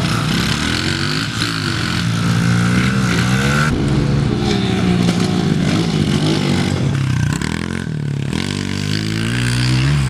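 Small four-stroke single-cylinder pit bike engine revving up and down repeatedly as it is ridden round a dirt track, the pitch rising and falling many times.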